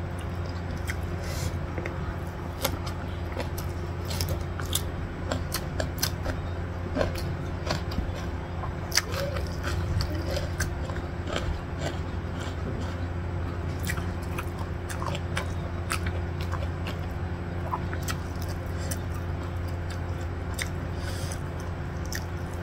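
Close-miked eating sounds of rice and stir-fried pak choy with egg: chewing and many small mouth clicks and smacks, with fingers mixing the rice, over a steady low hum.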